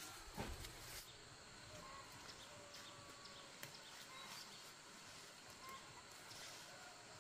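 Faint outdoor ambience with scattered short bird chirps, after a brief knock in the first second.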